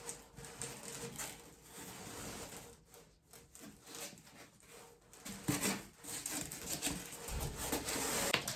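Irregular rubbing, rustling and light knocks of things being handled by hand.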